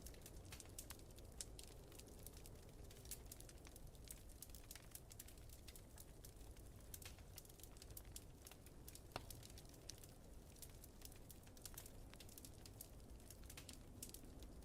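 Faint crackling of a wood fire: many irregular sharp pops and ticks over a low, steady rumble.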